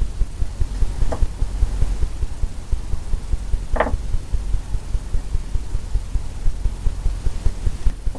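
Low, fluttering background rumble, with two brief faint sounds about one second and nearly four seconds in.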